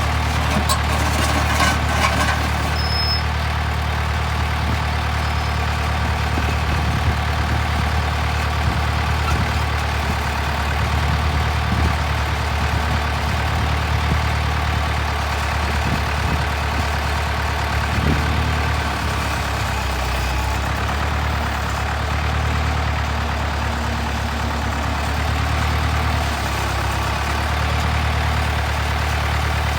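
Ditch Witch 7610 trencher's engine idling steadily, with a few light ticks in the first couple of seconds.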